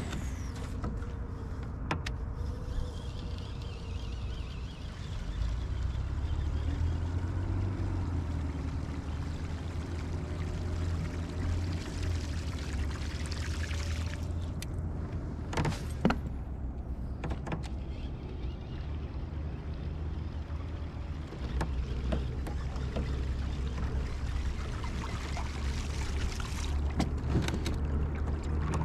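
Water sloshing against a fishing kayak's hull over a steady low rumble, with a few sharp clicks now and then.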